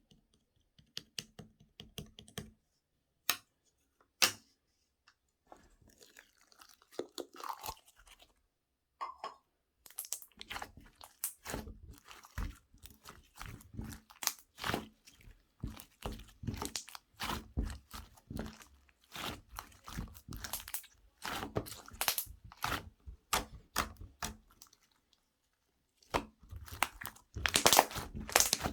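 Slime being handled and squished by hand, making sticky clicks, pops and crackles. The clicks are scattered at first and become a dense, continuous crackling about ten seconds in.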